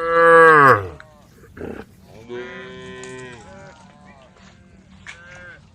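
Cows mooing: a loud call in the first second that falls in pitch, then a quieter, longer moo from a little past two seconds, and a short call near the end.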